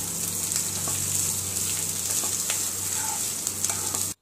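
Chickpeas and grated coconut sizzling in a hot pan of oil tempered with mustard seeds, dried chilli and curry leaves, as a spoon stirs them with light clicks and scrapes against the pan. The sizzle cuts off suddenly near the end.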